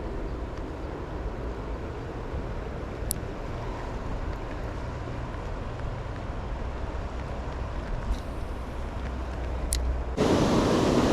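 Steady riverside ambience: a low rumble like distant road traffic, with wind on the microphone. About ten seconds in it jumps abruptly to a louder, even rushing noise.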